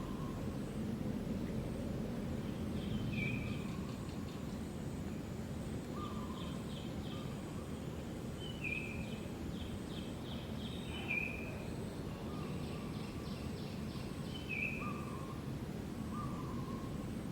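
Birds calling over a steady outdoor background noise: a short hooting note repeated every second or two, with higher chirps and brief rapid trills in the middle.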